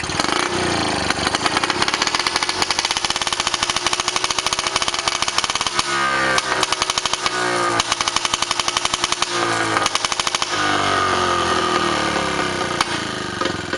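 British Seagull two-stroke outboard motor cold-started on choke, catching on the first pull and running loud with rapid firing, its speed rising and falling a few times before it dies away at the end.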